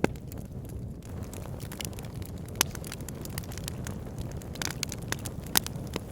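Wood fire burning in a log burner: a steady low roar of flame with scattered crackles and sharp pops of the burning logs, two of them louder, a little under a third of the way in and near the end.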